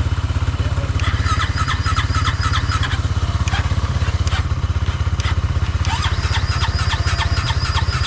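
Flooded boat engine turning over steadily on its starter, plugs pulled, cranking to blow water out of the cylinders after the boat sank. A rhythmic higher chatter rides over it twice, about a second in and again near the end.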